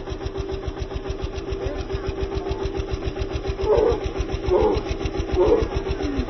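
A motor running steadily with a rapid low pulse and a steady hum. About halfway in come three short, louder sounds, roughly a second apart.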